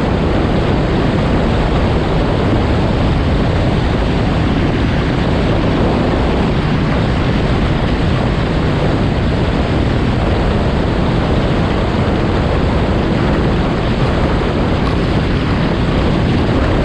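Yamaha FX SVHO personal watercraft running steadily at speed, its supercharged engine and rushing water heard under loud, steady wind noise on the microphone.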